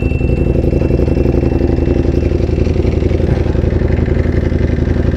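Sportbike engine idling steadily, a fast, even pulsing throb.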